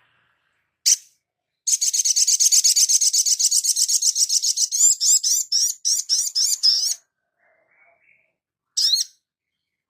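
Song of a small bird of the sunbird family, the kind used as a training recording for cage birds: one sharp high note, then a long, very fast high trill lasting about three seconds, breaking into a slower run of slurred, swooping notes about four a second, and one more short note near the end.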